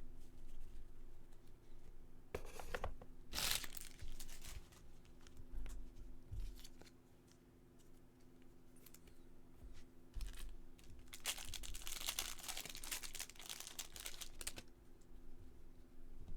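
Baseball card pack wrappers being torn open and crinkled by hand: two short rips about two and a half and three and a half seconds in, then a longer stretch of crinkling from about eleven seconds to near the end.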